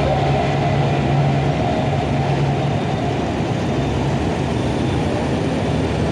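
Motorcycle engine running under a steady rush of wind and road noise while riding; its low engine note fades about four seconds in.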